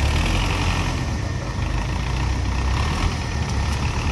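Heavy diesel engine running steadily, near idle.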